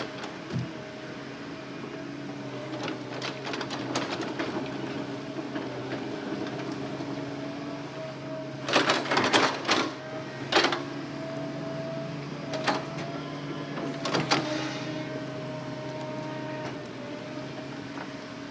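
Hitachi Zaxis excavator running steadily with a low hum and a steady whine. A cluster of sharp knocks comes about halfway through, and two single knocks follow.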